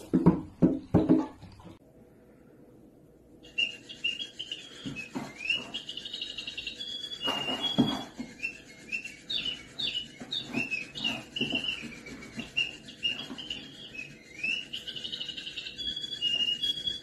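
Small bird chirping rapidly and continuously in short, high, sliding cheeps, with scattered soft knocks and taps beneath. A few louder knocks come in the first second or two, before the chirping begins.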